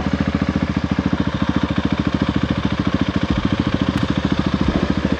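Motorcycle engine running steadily, with an even, fast pulsing beat of about a dozen beats a second.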